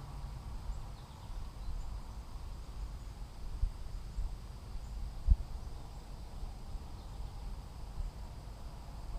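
Outdoor ambience: a steady low rumble with a few soft knocks, the loudest about five seconds in.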